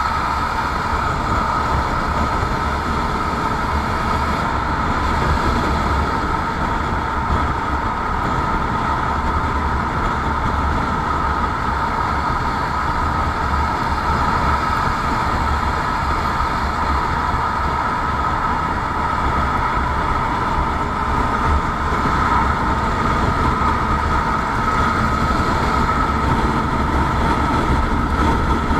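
Steady running noise of a vehicle on the move: an even rushing sound over a constant hum and low rumble, unchanging throughout.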